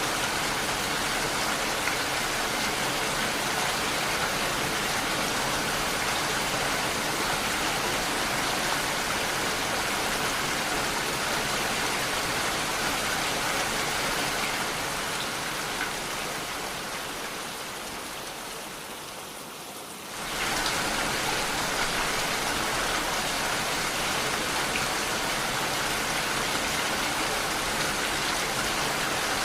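Steady rain, an even hiss of falling drops. Past the middle it fades lower over several seconds, then snaps suddenly back to full level about two-thirds of the way through.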